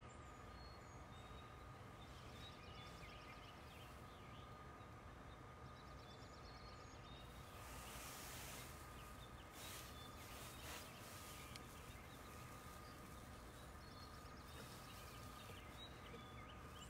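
Near silence with faint birdsong: scattered high chirps and a short repeated trill a few times, over quiet outdoor background noise.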